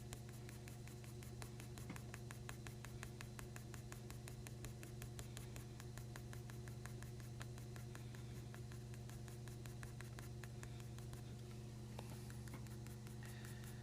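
Quick, short drawing strokes scratching on paper, many a second, as grass is being drawn in, over a steady low electrical hum.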